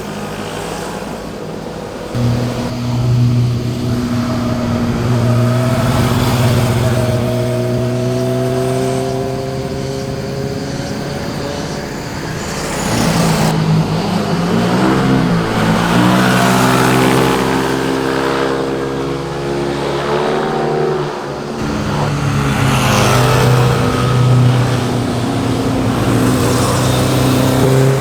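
Sport motorcycle engines and exhausts riding past, the engine note holding steady and then rising and falling as the riders roll the throttle on and off, with changes in the note about two seconds in, around the middle, and again past two-thirds of the way.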